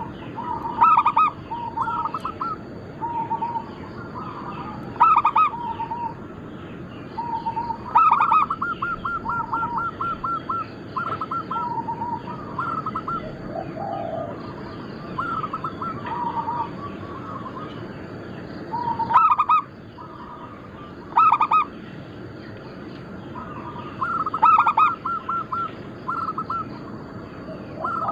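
Zebra doves (perkutut) cooing in repeated rhythmic phrases of short, bubbling notes, several birds overlapping. A faint, thin, steady high tone comes and goes behind them.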